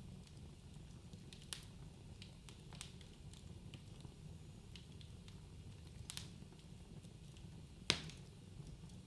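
Wood fire in a fireplace crackling: scattered sharp pops over a steady low rumble of the flames, with the loudest pop near the end.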